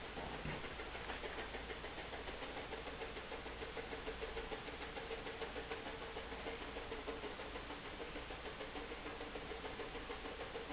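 A dog breathing heavily, panting quickly and evenly at about three to four breaths a second, faint.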